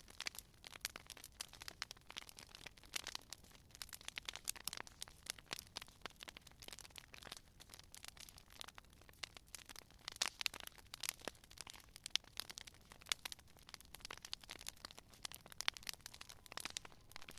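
Wood fire crackling: dense, irregular snaps and pops of burning logs.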